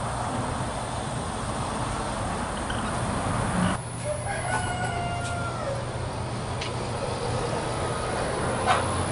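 A rooster crows once, about four seconds in, over a steady background hiss.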